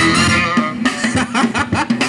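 Live band playing a dance groove, with guitar over a steady beat and bass line.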